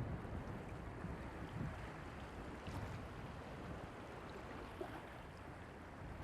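Wind buffeting the microphone over the steady wash of surf on a beach, with no firework bursts.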